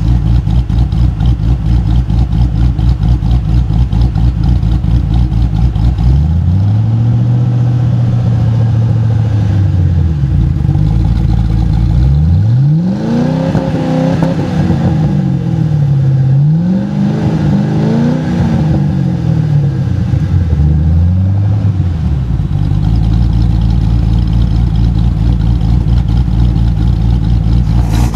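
Cammed 4.6-litre three-valve V8 of a 2006 Saleen Mustang GT with Ford Racing cams, through electric exhaust cutouts and a Magnaflow axle-back, idling with a choppy lope. About six seconds in it is revved and held, then falls back, followed by a string of revs rising and falling before it settles back to the lumpy idle.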